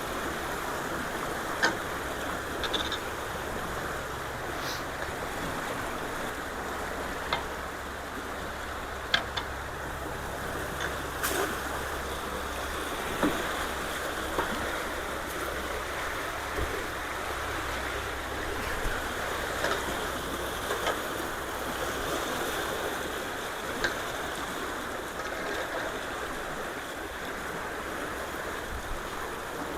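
Creek water rushing steadily through a ditch, with about ten scattered sharp taps or clicks along the way.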